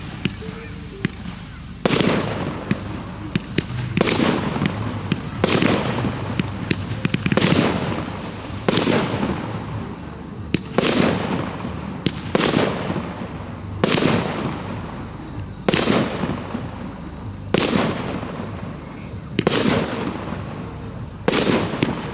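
Professional display fireworks: a run of about a dozen loud shell bursts, one every one and a half to two seconds, each fading out over about a second, with small sharp pops between them.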